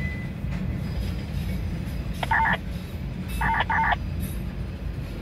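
Freight train tank cars rolling slowly past with a steady low rumble. About two seconds in, and again about three and a half seconds in, there are brief clusters of rapid high-pitched pulsed tones.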